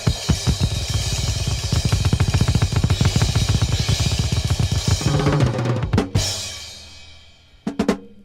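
Drum kit playing a fast, busy passage of bass drum, snare and cymbal strokes. About six seconds in, one last heavy hit dies away, and a few new strikes come in near the end.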